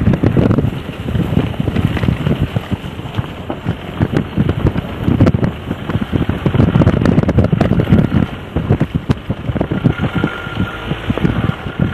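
Wind buffeting the microphone in uneven gusts, a loud rumbling noise that swells and fades.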